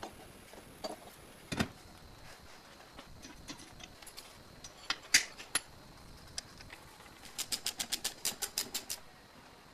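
Hand work on hard parts: scattered light clicks and knocks, a sharper hit about halfway, then a quick, even run of about a dozen clicks near the end.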